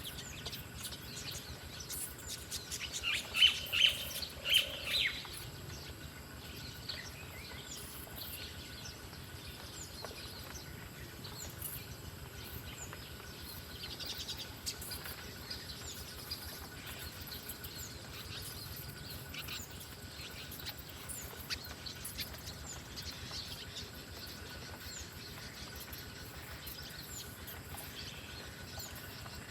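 Small songbird chirping: a quick run of loud, high chirps about three seconds in, then fainter scattered chirps, over a faint steady high background hum.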